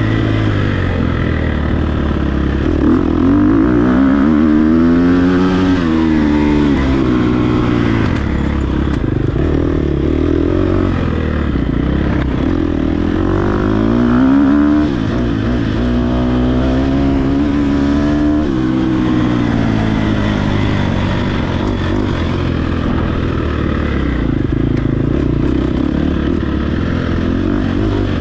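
Dirt bike engine running hard, its pitch rising and falling again and again as the throttle opens and closes, with sharp drops in pitch about 15 seconds in and again about 18 seconds in.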